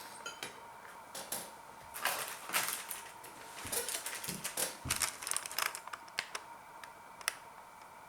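Cutlery clicking and scraping against a plate while meatballs are cut and eaten: an irregular run of sharp clicks and scrapes from about a second in to about six seconds, then a couple of lone clicks near the end.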